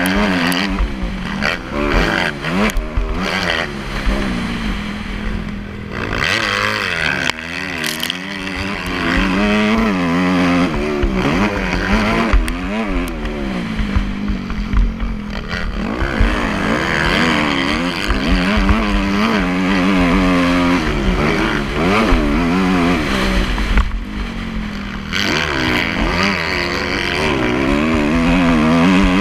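Motocross dirt bike engine revving up and down over and over, its pitch rising and falling every second or two as the throttle is opened and closed.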